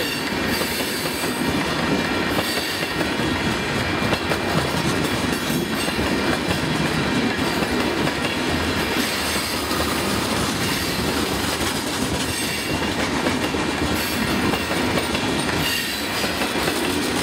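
Empty open-top freight cars of a sand train rolling past close by: a steady rumble and rattle of steel wheels on rail, with occasional clacks over rail joints.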